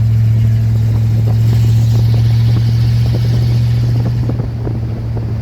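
1946 Dodge pickup truck driving, its engine and road noise making a steady low drone, easing slightly near the end.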